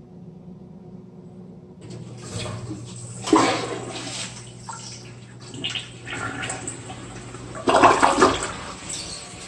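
Toilet flushing: water rushes in about two seconds in and swells twice while the bowl empties and refills.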